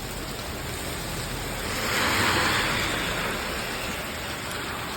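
Steady rain hiss with a car passing on the wet road: a swell of tyre hiss through water builds about a second and a half in, peaks, and fades away.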